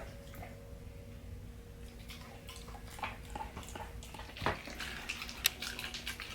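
American pitbull puppy chewing and tearing at a meal of meat and kibble: a run of short, irregular crunching clicks that grows busier about halfway through.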